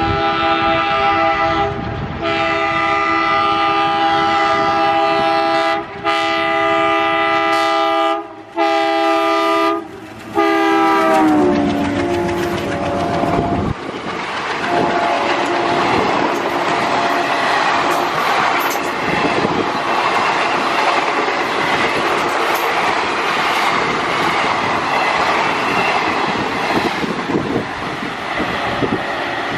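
WDM3A diesel locomotive's multi-tone horn sounding four long blasts with short breaks, its pitch dropping as the locomotive passes about eleven seconds in. Then the loud rush and clickety-clack of express coaches passing at speed.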